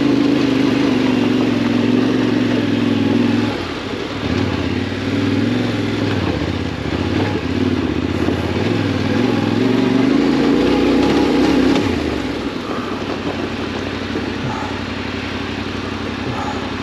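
Yamaha Ténéré 700's parallel-twin engine running while riding off-road. The engine note holds steady, drops about three and a half seconds in, wavers up and down for several seconds, and settles lower and quieter after about twelve seconds as the throttle eases.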